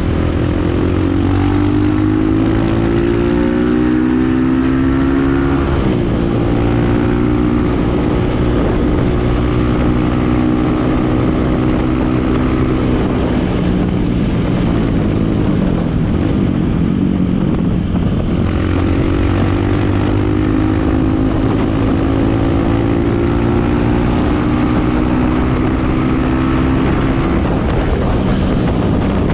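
Kawasaki KLX single-cylinder four-stroke motorcycle engine under way. Its pitch climbs as it accelerates and drops at an upshift about six seconds in. It falls away as the throttle is eased midway, then climbs again and shifts up near the end.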